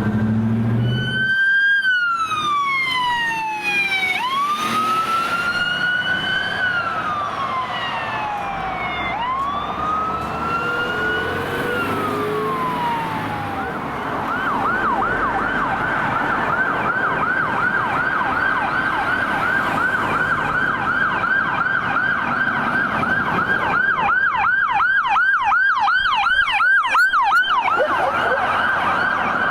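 Emergency vehicle electronic sirens: a slow rising and falling wail switches about halfway through to a fast yelp, and for a few seconds near the end a second siren with a faster warble sounds over it.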